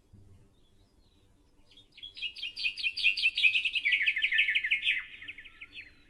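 A small songbird singing one fast trilling phrase, a rapid run of repeated notes that starts about two seconds in, lasts about four seconds and drifts lower in pitch toward the end.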